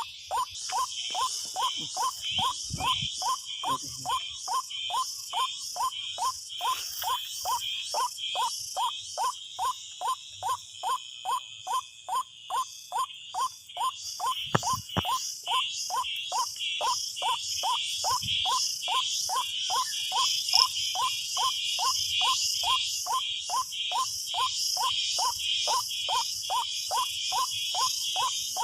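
Forest insect chorus: a high buzzing band that pulses, with a regular call near 1 kHz repeating about twice a second without a break.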